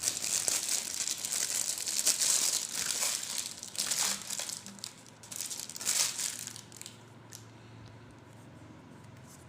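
Plastic packaging crinkling and rustling as it is handled and pulled open, with sharp crackles, stopping about two-thirds of the way in, after which only a faint low hum remains.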